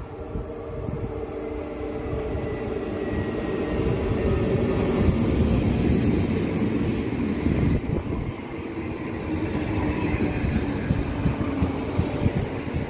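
Regio 2N double-deck electric multiple unit running past the platform, its wheels on the rails and a steady electric hum growing louder over the first few seconds, then holding.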